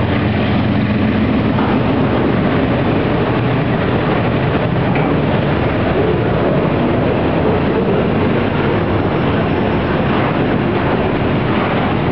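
Freight train's autorack cars rolling past close by: a loud, steady rumble of steel wheels on rail. The hum of the departing diesel locomotives fades out over the first few seconds.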